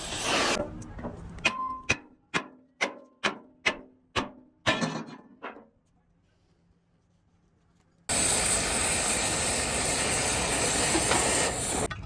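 About ten sharp hammer blows on steel, a little over two a second, some leaving a short metallic ring. After a dead gap, a steady loud hiss takes over.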